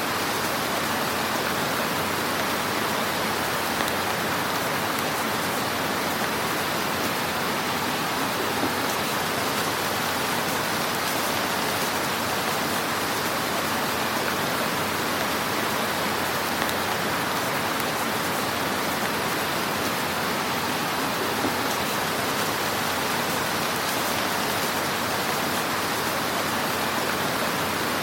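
Fireplace fire crackling: a steady, dense hiss of fine crackle with an occasional slightly louder pop.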